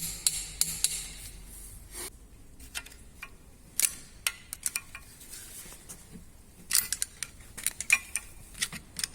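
Metal tools and engine parts being handled, giving irregular sharp clicks and clinks, some in quick clusters, with a faint steady hum beneath.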